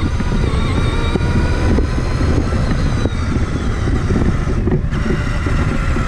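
Traxxas Summit 1/10-scale electric RC truck driving, heard from a camera mounted on it: a whine from its motor and gears that holds fairly steady and drops out briefly near the end. Under it runs a rough, steady rumble.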